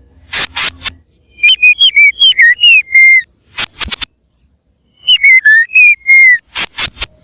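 White-rumped shama (murai batu) singing loudly: phrases of clear whistled notes mixed with short harsh rasping notes, with a pause of about a second in the middle.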